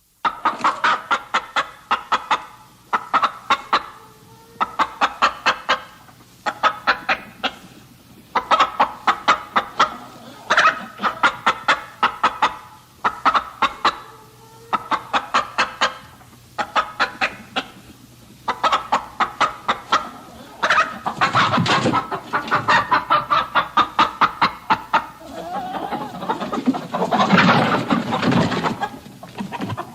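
Chickens clucking in rapid runs of short notes separated by brief pauses, becoming denser and louder in the last third.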